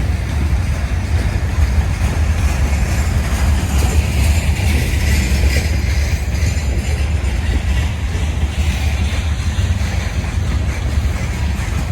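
Slow-moving freight train rolling past, a steady low rumble with the rattle of the cars.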